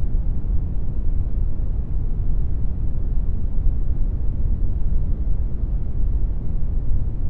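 Synthetic brown noise generated in Audacity: a steady, deep rumbling hiss with most of its energy in the low end, unchanging throughout.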